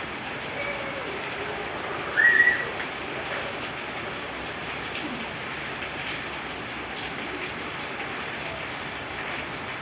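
Heavy rain falling steadily, an even hiss. About two seconds in there is one short high call or cry, the loudest sound here.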